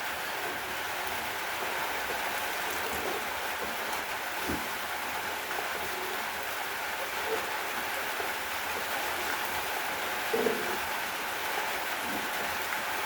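Steady rain falling, an even hiss, with a few separate louder drips, the most distinct about ten seconds in.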